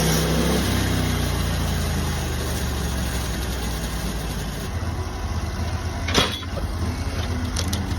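An engine running, its speed dropping to a low idle about half a second in and then holding steady. A single sharp clank sounds about six seconds in, with a few lighter clicks near the end.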